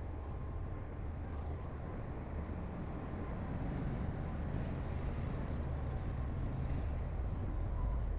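Heavy earthmoving machinery's diesel engine running steadily, a low rumble that grows slowly louder.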